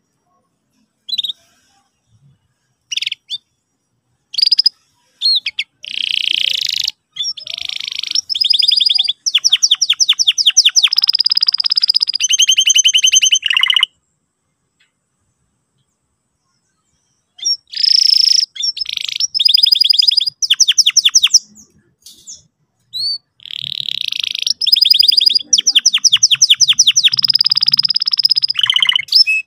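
Domestic canary singing, with a few short chirps in the first seconds and then long, fast trilled song phrases of rapidly repeated notes, some rolling at one pitch. A pause of about three seconds falls mid-way before two more bursts of song.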